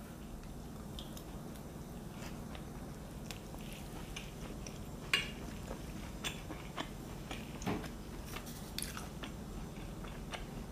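A person chewing a mouthful of steak salad close to the microphone: irregular small crunches and wet clicks, a couple of louder ones about five and about seven and a half seconds in.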